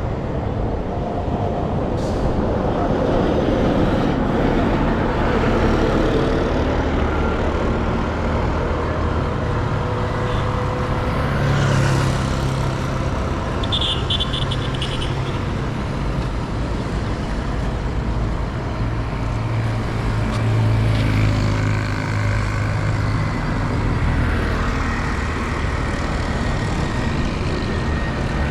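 Street traffic: a steady wash of road noise with vehicle engines running and passing, and a brief high tone about halfway through.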